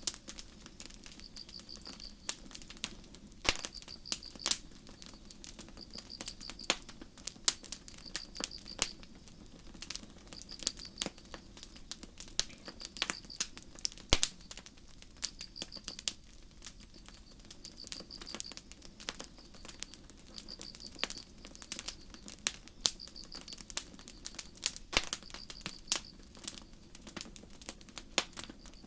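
Campfire crackling, with irregular sharp pops and snaps of varying loudness, over crickets chirping in short high trills that repeat about every second and a half.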